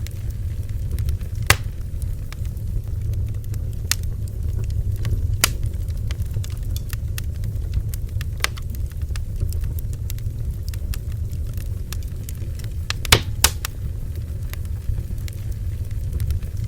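Bonfire burning: a steady low rumble with sharp pops from the crackling wood every few seconds, two of them in quick succession about three-quarters of the way through.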